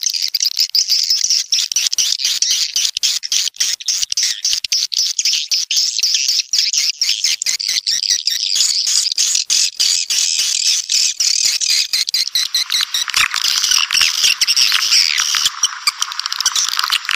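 Swiftlets calling: a dense, unbroken stream of rapid, high-pitched twittering chirps. About twelve seconds in, the chorus grows thicker and fuller.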